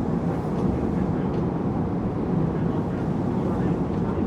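Steady running noise inside a Tokyu 8500 series electric commuter train: a constant low rumble of wheels on rail and car body, with no distinct rising or falling motor whine.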